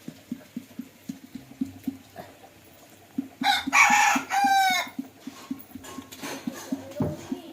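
A rooster crows once, a call of about a second and a half starting about three and a half seconds in, over a steady soft low tapping of about five a second.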